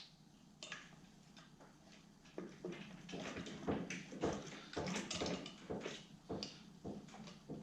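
Irregular light clicks and knocks of hand tools and metal parts, starting about two seconds in, as a stuck oil pump is worked loose from a snowmobile engine.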